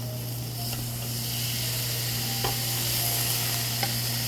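Thick-cut beef sizzling on a tabletop grill, the sizzle growing louder about half a second in, with a couple of light clicks and a steady low hum underneath.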